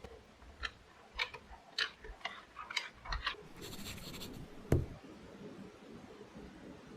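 A run of light, irregular clicks and taps, a short rustle about halfway through, then one sharp knock, the loudest sound: small household objects being handled in a small room.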